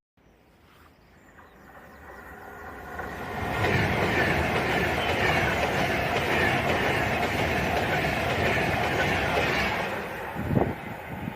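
Avanti West Coast Class 390 Pendolino electric train passing through the station at speed: it swells from a faint approach over the first few seconds, is loud and steady for about six seconds with wheels clattering on the rails, then eases off near the end.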